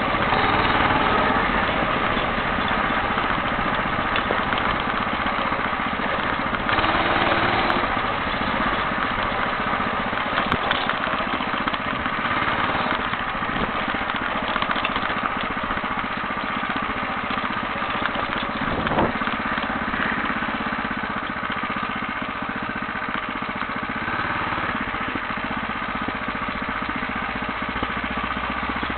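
Home-built motorcycle's engine running steadily under way, at an even level, with a single short knock about two-thirds of the way through.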